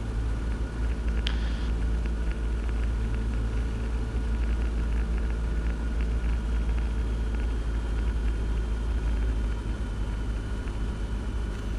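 Cessna 172's piston engine at reduced power with its propeller, a steady low drone heard from inside the cockpit on the final approach to landing.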